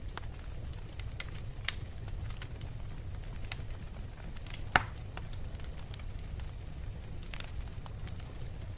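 Wood fire burning in a fireplace: a steady low rumble of flames with scattered sharp crackles and pops from the logs, the loudest pop a little before the middle.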